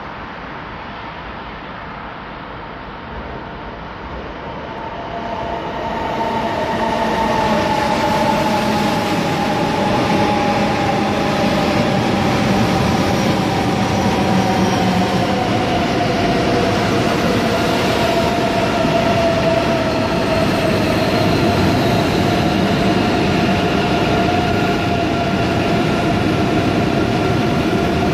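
ICE 3 high-speed electric train coming into the station. The rumble of wheels on rail builds over the first several seconds and then holds steady, under several whining tones that slowly fall in pitch as the train slows.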